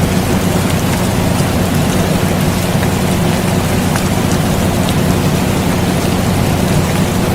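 Rain falling in a steady hiss with scattered drop ticks, mixed with the steady low hum of an air conditioner.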